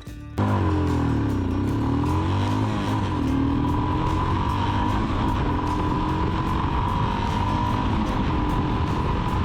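Royal Enfield Himalayan's 411 cc single-cylinder engine running through a PoweRage slip-on exhaust, cutting in suddenly under way. Its pitch dips and then climbs again over the first few seconds, then holds steady as the bike cruises, with a steady high whine alongside.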